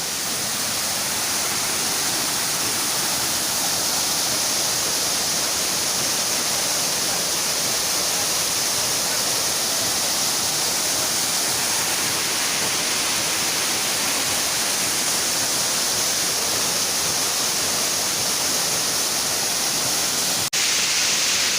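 Waterfall: a steady rush of falling water, with a brief dip near the end.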